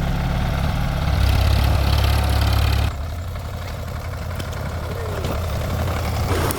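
Sonalika tractor's diesel engine running steadily with a deep low hum. It gets louder for a couple of seconds, then drops abruptly to a lower level about three seconds in.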